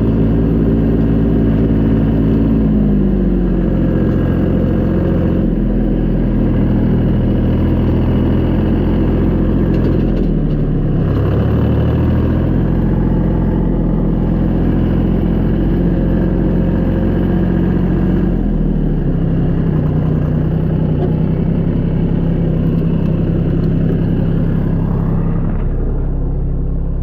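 Tractor engine running steadily, its speed rising and falling several times as the throttle changes, with a drop near the end.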